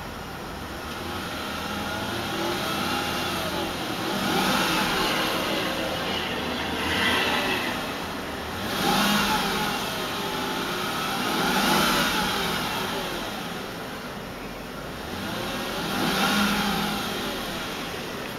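Mercedes-Benz S430's 4.3-litre V8 revved in neutral several times, heard from inside the cabin. The pitch rises and falls in about five swells, up to around 3000 rpm, settling back to idle between them.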